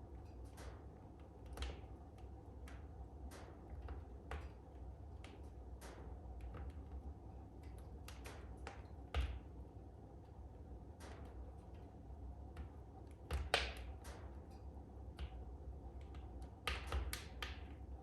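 Wood fire in a fireplace crackling: irregular sharp pops and snaps, with louder pops about nine, thirteen and a half and seventeen seconds in, over a steady low rumble.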